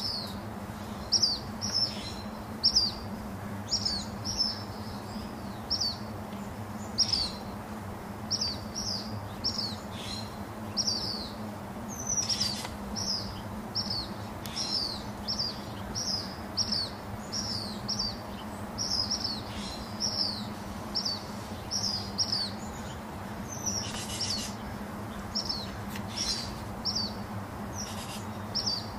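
A small bird chirping over and over, short falling high chirps about one or two a second, over a steady low hum.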